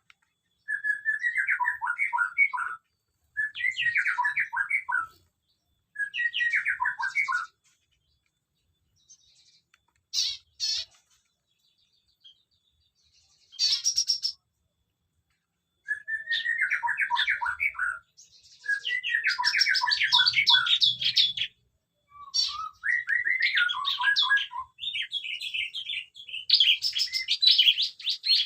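Small aviary birds chirping in repeated short phrases of quick notes that fall in pitch, with pauses between them. Near the end the phrases come thicker and overlap.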